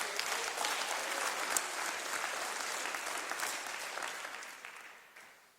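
Church congregation clapping in response to a call for a shout of praise, a dense spread of handclaps that fades and dies away about five seconds in.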